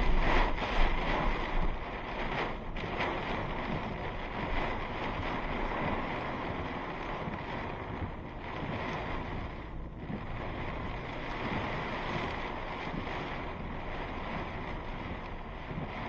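Steady rush of strong storm wind and road noise around a moving truck, with a couple of louder jolts about a second in.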